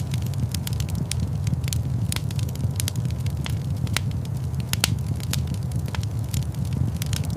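Fire in a large stone fireplace crackling, with frequent irregular sharp pops over a steady low rumble.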